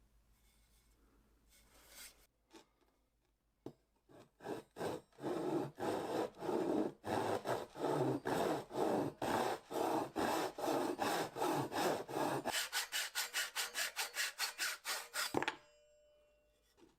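Back-and-forth rubbing strokes of a hand tool on wood, at first about two a second, then quicker and lighter, about four a second, before stopping suddenly.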